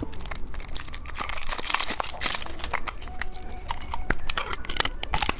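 Plastic candy packaging crinkling and crackling, with many small sharp clicks as it is handled.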